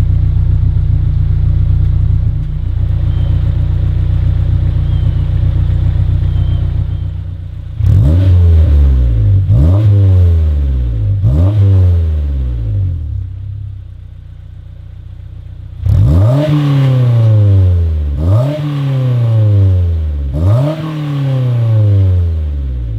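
Honda S2000's four-cylinder VTEC engine, breathing through its stock catalytic converter and an HKS 75 mm cat-back exhaust, idling steadily after a cold start. About eight seconds in come three quick throttle blips, each rev rising sharply and dropping away. It settles to a quieter idle, then gives three more blips near the end.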